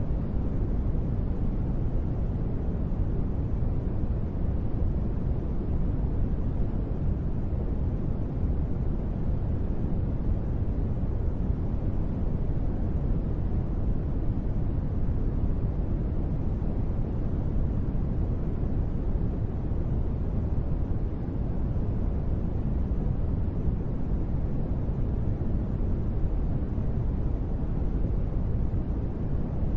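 Steady sleep-noise track sold as gentle rain white noise: an even, unbroken hush heavy in the low end with little hiss above. No single drops, thunder or other events stand out.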